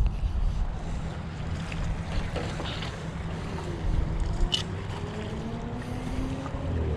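Low steady hum of an engine at a distance, with wind on the microphone; a faint tone slowly rises in pitch over the second half.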